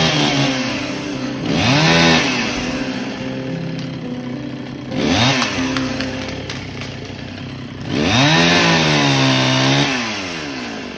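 Chainsaw idling and revving up, then dropping back to idle, several times. The longest rev comes about 8 s in and lasts about two seconds.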